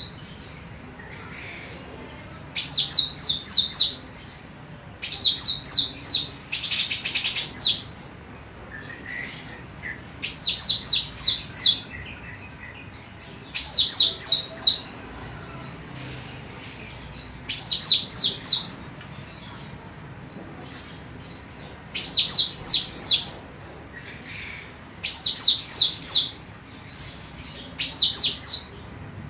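Female cucak rante emas singing. It repeats short phrases of four or five quick, high, down-slurred notes every three to four seconds, with one harsher, buzzy phrase about seven seconds in.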